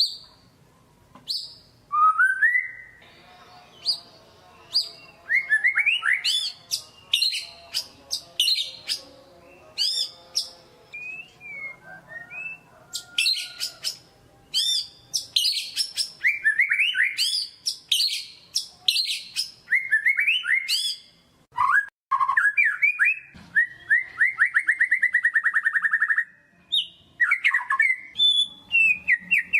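White-rumped shama singing a loud, varied song of sharp high chips, whistled sweeping notes and quick phrases, with a long rapid trill a little past the middle.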